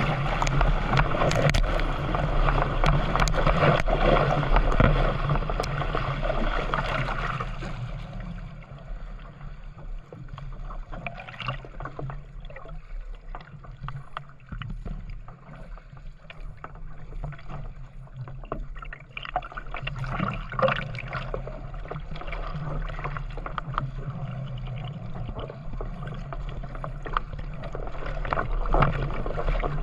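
Canoe paddling on open water: water rushing and splashing around the hull and paddle. The rush is loud for the first several seconds, then drops to quieter splashes over a steady low hum.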